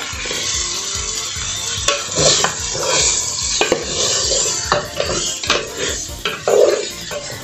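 Food frying in a pot with lard, sizzling steadily while a spoon stirs it, scraping and clicking against the pot many times.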